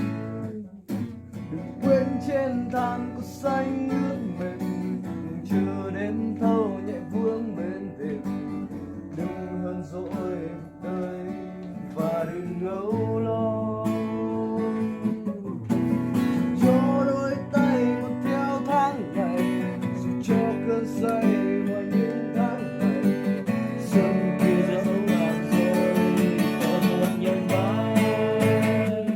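Acoustic guitar strumming chords in an instrumental passage of a song, with a melody line moving over it.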